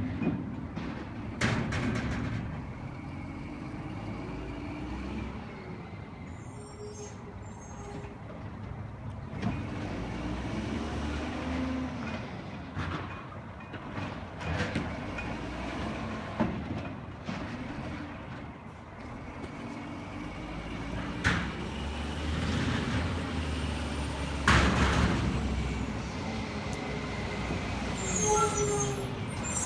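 Garbage truck with its engine running and occasional metal bangs and clanks from the truck's body and equipment, with a run of short beeps near the end.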